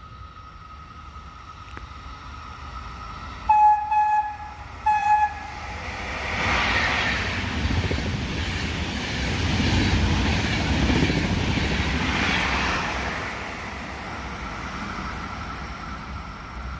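A train sounds its horn in a few short, high-pitched blasts, then runs past with a loud rushing rumble that swells and fades.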